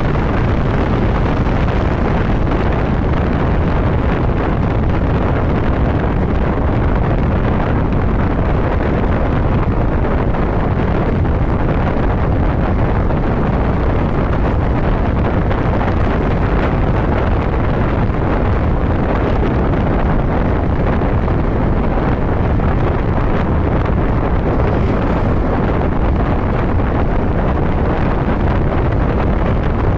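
Steady wind rush on the microphone of a motorcycle riding at road speed, with the bike's engine and tyre noise running underneath.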